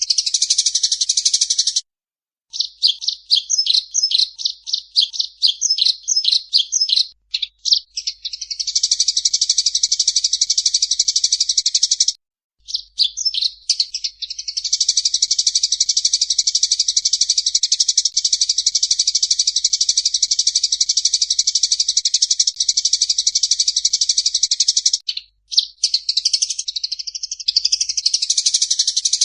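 Recorded songbird song, high-pitched: a string of quick separate notes at about three a second, then long unbroken rapid trills lasting several seconds each, split by short silent breaks.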